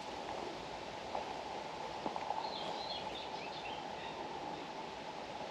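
Steady open-air background of a marsh, a faint even rustle, with a few faint high bird chirps around the middle.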